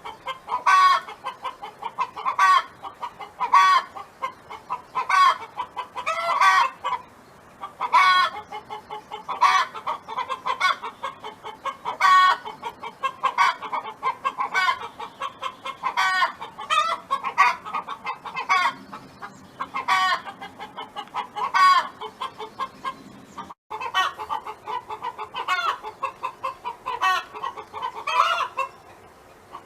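Domestic hen clucking in quick runs, with a louder call breaking through about every second and a half.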